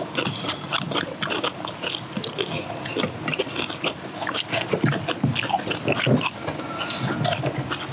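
Several people chewing kimchi and rice close to the microphone: a steady run of irregular wet clicks and crunches from mouths.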